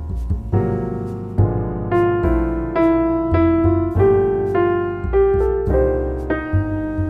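Background piano music: a slow melody of struck notes, about two a second, over a held bass.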